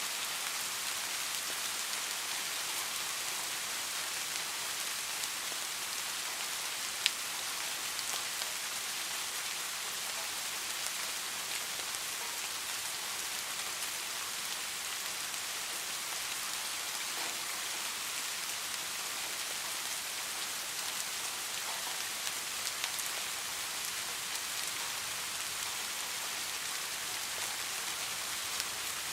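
Steady rain falling, an even hiss, with a few sharp ticks of drops, the loudest about seven seconds in.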